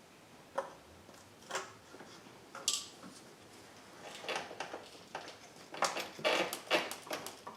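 Scattered clicks, knocks and rattles of hands and tools working a line off the back of a throttle body, with a denser run of clatter in the last couple of seconds.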